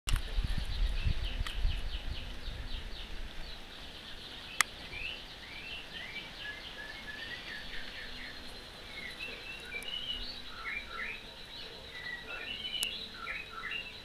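Small songbirds chirping and twittering: quick runs of short high notes at first, then varied warbling phrases. A low rumble in the first few seconds and a single sharp click a few seconds in.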